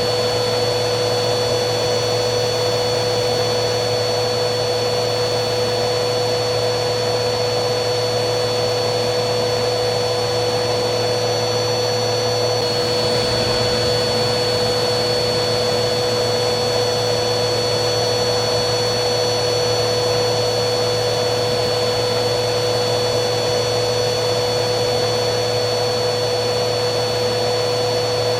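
Vacuum cleaner running steadily, a constant rushing hiss with a steady motor whine.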